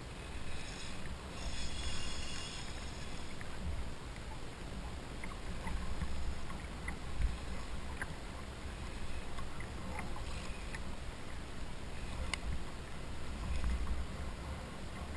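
Water and wind noise around a kayak on open water: a steady low rumble with a brief hiss near the start and scattered small clicks and knocks.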